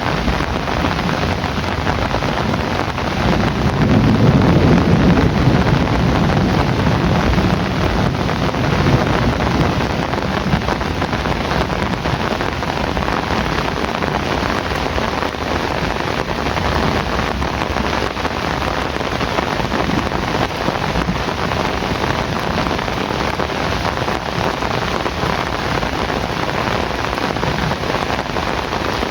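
Heavy rain falling steadily, with a low roll of thunder swelling about three seconds in and dying away over the next several seconds.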